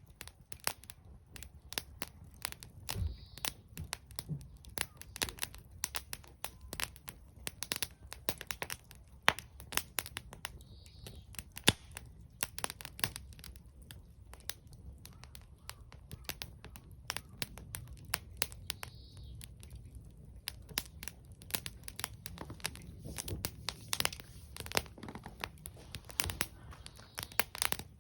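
Wood campfire crackling, with many sharp irregular pops, several a second, some much louder than others, over a low steady rumble.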